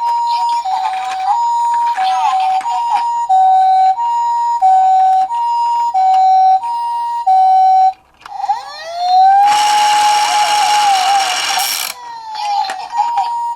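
Japanese ambulance-style two-tone siren alternating high and low, pee-po, about one note every 0.6 seconds. About eight seconds in it breaks off for a wailing siren that rises, holds under a loud hissing noise for a couple of seconds, then falls away before the two-tone pattern comes back.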